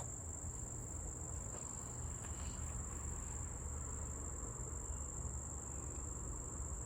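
Steady high-pitched chirring of crickets in the background, over a low rumble.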